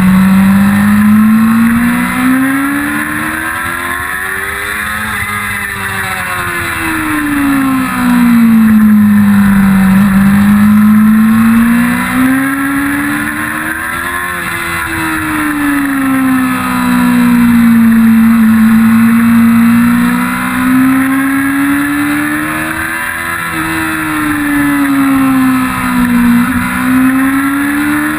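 A 1999 Yamaha YZF-R6's 600 cc inline-four engine at track speed, its pitch climbing and falling in long smooth sweeps about three times as the revs rise and drop through the corners.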